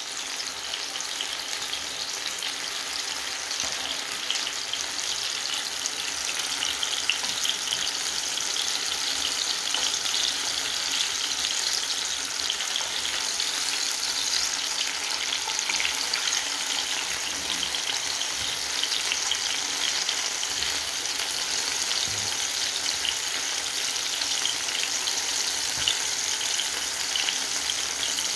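Tomato slices frying in hot oil in a pan, a steady crackling sizzle that grows a little louder over the first several seconds.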